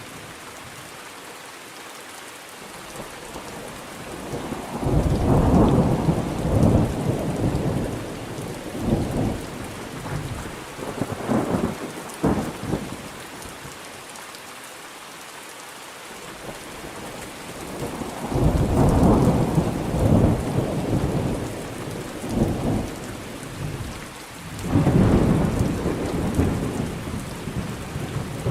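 Thunderstorm: steady heavy rain hissing, with three long rolls of thunder rumbling and crackling, starting about four seconds in, about eighteen seconds in and near the end.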